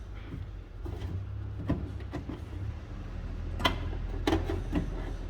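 A few sharp clicks and knocks of metal latch parts being handled and fitted inside a car door, the loudest a little past the middle, over a steady low rumble.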